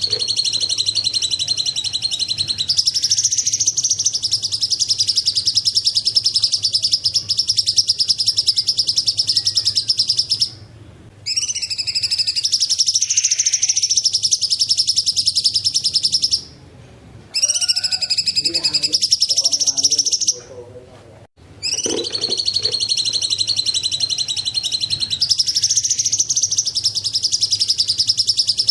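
Cucak cungkok singing: long runs of high-pitched, rapidly pulsed trilling song, broken by three short pauses.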